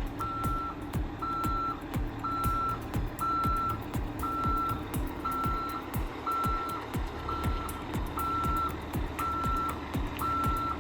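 A truck's reversing alarm beeping steadily, about one beep a second, over the low hum of its running engine. Background music with a steady beat plays throughout.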